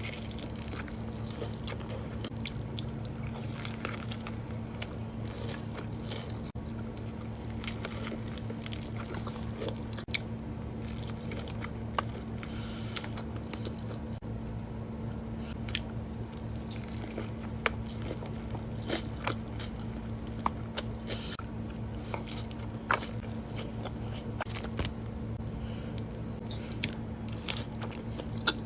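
Close-miked eating: crunchy bites and chewing, with scattered sharp crackles throughout, over a steady low hum.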